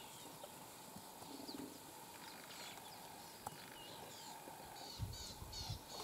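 Faint chirps and short whistles of small birds in the bush, scattered and growing busier in the second half, with a few low bumps near the end.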